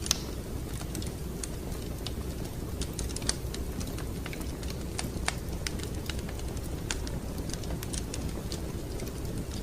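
Wood fire crackling: irregular sharp pops and snaps over a steady low rumble of the burning fire, with the loudest pop just after the start.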